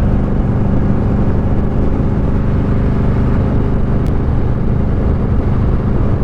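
Motorcycle engine running at a steady cruise, its note holding even, under a haze of wind and road noise.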